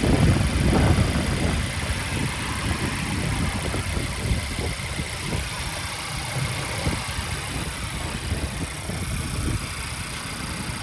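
Volvo S60 engine idling steadily, a little louder in the first second or so before settling to an even rumble.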